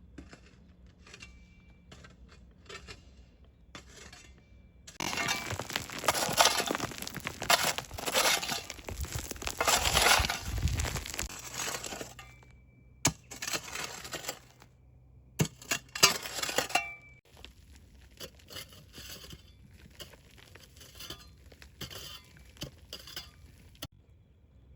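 Kitchen handling sounds: light clinks and taps, then a loud stretch of crunching and rustling about five seconds in that lasts some seven seconds, followed by a few sharp knocks and more scattered clicks.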